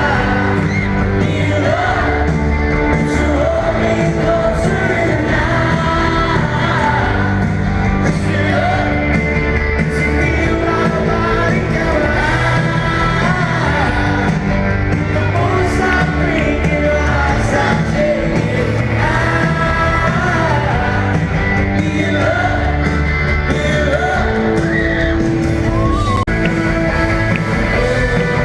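Live rock band playing in a large concert hall, with a male lead vocal singing and the crowd shouting along, loud and unbroken.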